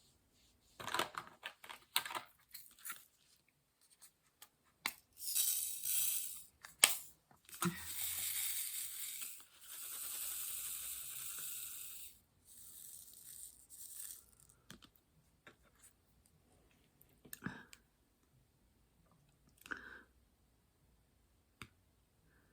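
Hand work on a diamond painting: scattered small taps and clicks, with a few seconds of crackly peeling or rustling of plastic film near the middle.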